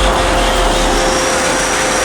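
Heavy road vehicle, a bus or truck, running close by: a steady loud engine drone with road noise and a constant whine.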